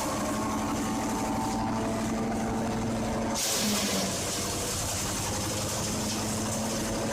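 Engine-driven mobile wood chipper running with a steady hum, with a brief louder rushing hiss about three and a half seconds in.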